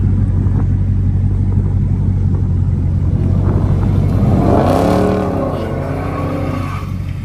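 Dodge Scat Pack's V8 engine running with a steady low rumble, then revving up about four seconds in and falling back over the next couple of seconds, as the driver tries to get enough throttle for the car to slide.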